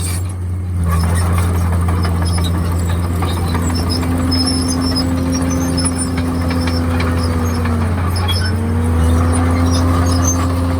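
Komatsu D51PX bulldozer's diesel engine running steadily. Its pitch sags for a moment about eight seconds in, then climbs back.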